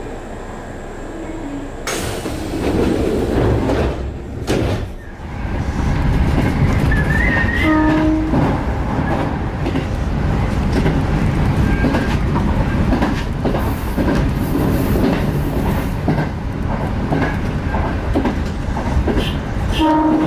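Kintetsu electric train running, a steady loud rumble with rail clatter that swells about two seconds in. The train's horn gives a short toot about eight seconds in and another near the end.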